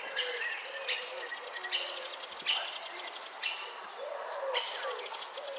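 Several birds calling together: a run of low, arching calls repeating over and over, mixed with higher trilled chirps about once a second.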